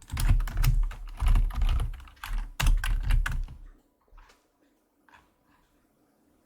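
Fast typing on a computer keyboard for about three and a half seconds, then a couple of single clicks.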